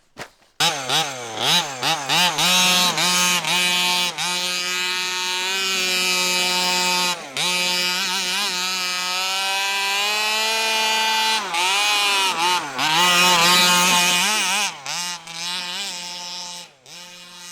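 Small two-stroke engine of a 1/5-scale HPI Baja 5B gas RC buggy (29cc) comes in suddenly about half a second in and revs up and down under throttle, holding a high steady rev through the middle. It drops back to a lower, quieter run near the end.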